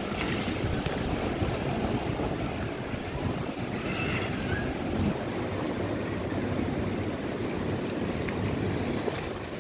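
Steady rain pouring down in a gusty wind, with wind noise on the microphone.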